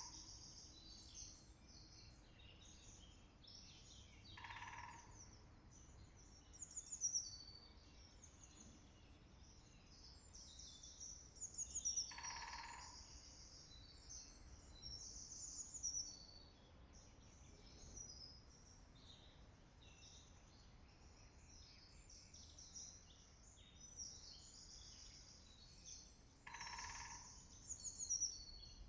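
A woodpecker drumming on a tree in three short bursts, about four, twelve and twenty-seven seconds in, over a dense, continuous chorus of songbirds.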